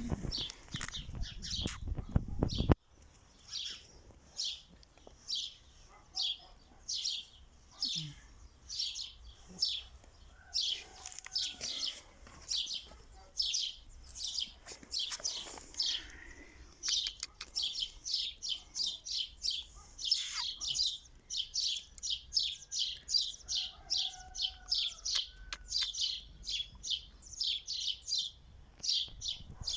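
A small bird chirping over and over, short high chirps about three a second. In the first three seconds a low rumbling noise runs underneath and cuts off suddenly.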